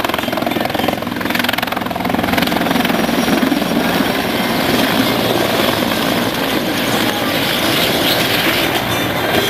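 Several helicopters flying low overhead in formation, the steady rapid beat of their rotors mixed with engine noise.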